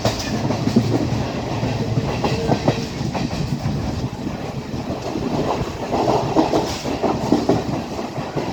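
Class S12 diesel multiple unit running along the line: a steady low rumble with irregular clatter and rattling of wheels over the rails.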